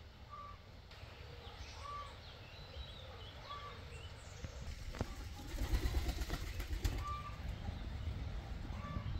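Birds calling: a short single note repeated about every second and a half, with scattered higher chirps. About five seconds in come a sharp click and then about two seconds of low rumbling noise.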